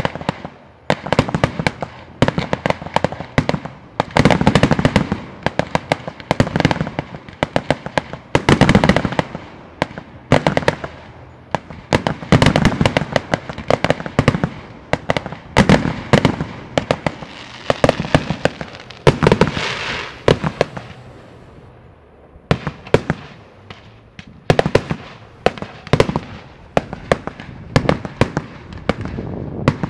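Aerial fireworks shells bursting in rapid volleys of sharp bangs and crackling, with a short lull about two-thirds of the way through before the barrage picks up again.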